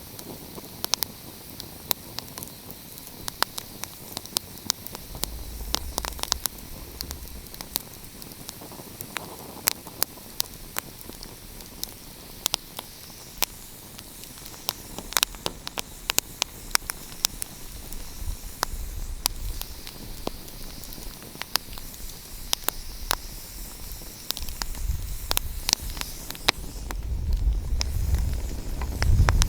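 Wood fire crackling, with frequent sharp pops and snaps over a steady hiss. A low rumble swells a few seconds in and again near the end.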